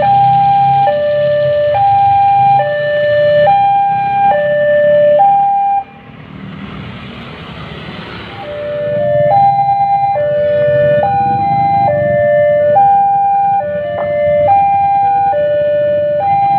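Electronic two-tone warning alarm alternating between a high and a low note, each held just under a second. It breaks off for a couple of seconds near the middle, leaving a quieter hiss, then resumes with a second two-note alarm sounding out of step with it.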